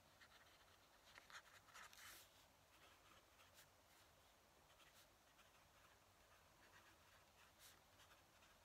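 Fountain pen nib scratching faintly across paper in short strokes, busiest about one to two seconds in.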